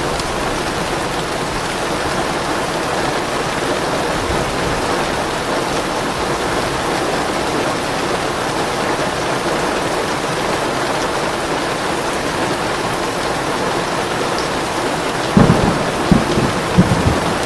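Steady rain falling, with a short burst of thunder near the end: several sharp low cracks and rumbles over about two seconds.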